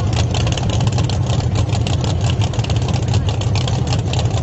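Drag-race cars' engines, among them a twin-turbo Chevy Nova, idling loudly at the starting line with a steady, rough, rapid exhaust pulse.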